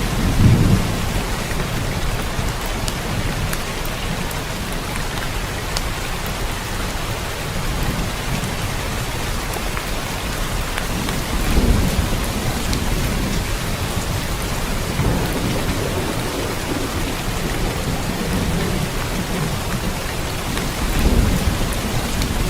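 Steady rain with low rolls of thunder swelling up near the start, about halfway through and again near the end.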